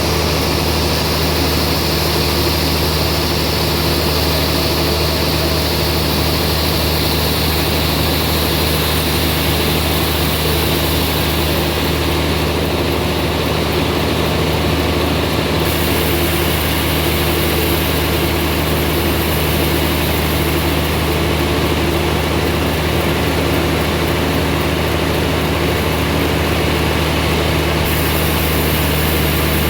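Band sawmill running steadily with a constant low machine hum.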